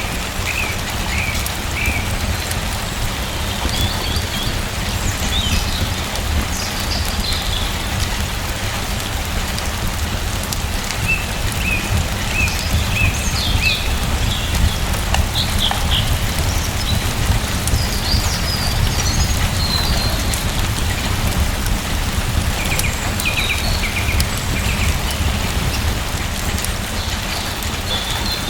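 Steady rain falling, with a deep even rumble under it. Small birds chirp in short bursts every few seconds over the rain.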